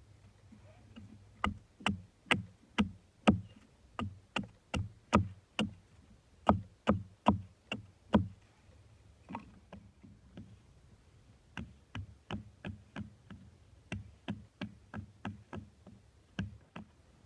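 Rhythmic sharp knocking blows, about two a second, in two long runs separated by a few seconds of lighter, scattered knocks.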